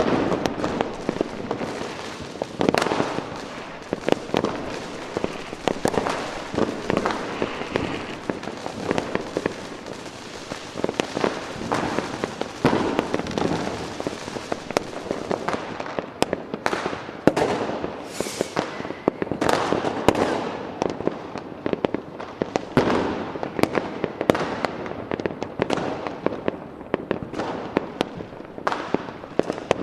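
Fireworks going off in a dense barrage of overlapping bangs and crackle. About halfway through the barrage thins into separate bangs, each with a trailing echo.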